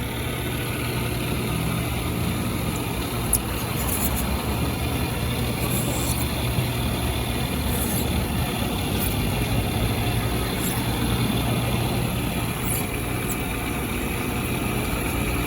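A steady low mechanical hum, with short scraping cuts scattered through it as the rubber heel top piece is trimmed.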